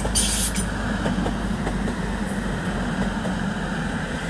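TransPennine Express passenger train running slowly into the platform to stop, a steady low rumble, with a brief hiss just after the start.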